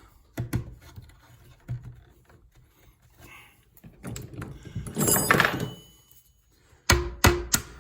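Knocks and clicks of small clips and headlight cover parts being handled and fitted. A louder rustling scrape comes midway, and a quick run of sharp, slightly ringing metallic clicks near the end.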